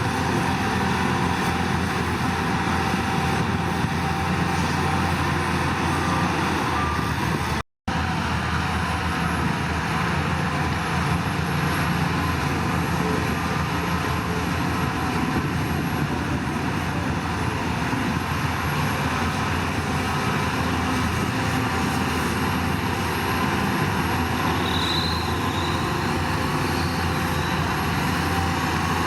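Heavy diesel construction machinery running steadily under load, a continuous engine drone with a short break of silence about eight seconds in.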